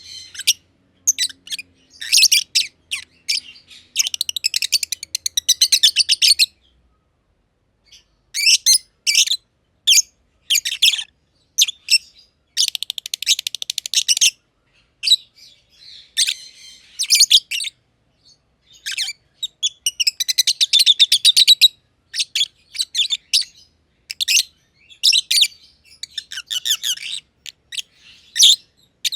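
Black-masked lovebirds (green personata and green pied personata) chirping, in bouts of sharp, high-pitched chirps and fast buzzing chatter with brief pauses.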